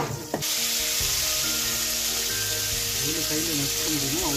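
Garlic, dried red chillies and curry leaves sizzling in hot oil in an aluminium kadai, sautéing until the garlic's raw smell goes. The sizzle jumps up suddenly about half a second in and then holds steady.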